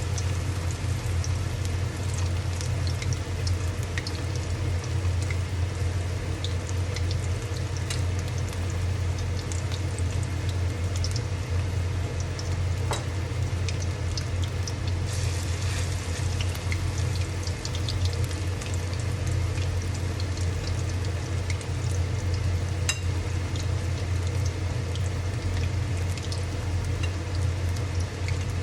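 Oil sizzling in a pan, with scattered small crackles, over a steady low hum.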